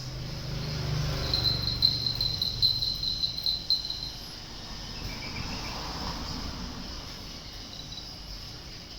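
A high-pitched insect trill, pulsing rapidly for about three seconds from just after a second in, over a low rumble.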